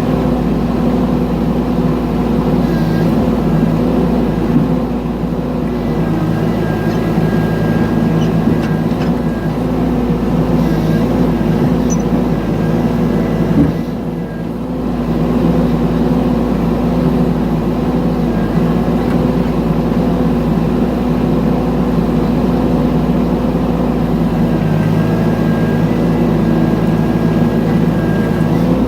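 Mini excavator engine running steadily while digging. A single knock comes about halfway through, followed by a brief drop in the engine sound.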